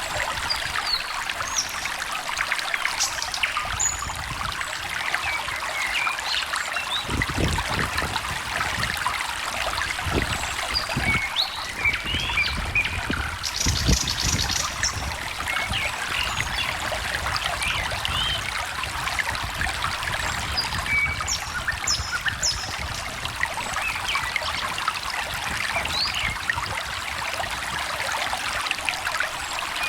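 A small stream trickling and splashing steadily, with songbirds chirping and calling throughout. One bird gives a short rapid trill about halfway through. There are a few low thumps in the first half.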